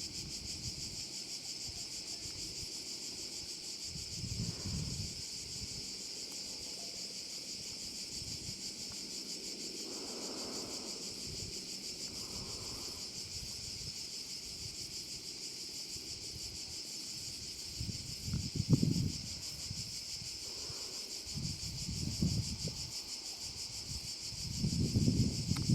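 A steady, high-pitched chorus of insects chirring, with low gusts of wind buffeting the microphone several times, loudest near the end.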